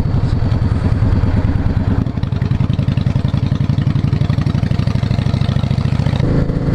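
Motorcycle engine running under way, heard from the rider's position. Its note changes about two seconds in and again near the end.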